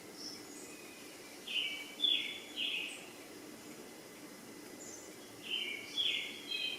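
A bird calling in two bursts of three short notes each, a few seconds apart, with fainter high chirps between them over a steady low background hum.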